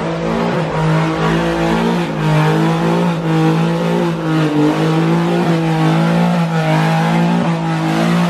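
Car engine revved and held at high, steady revs, its pitch wavering slightly.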